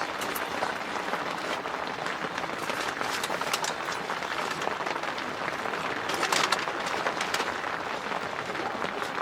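Steady rain falling on a tent, a continuous hiss made of many small drop ticks.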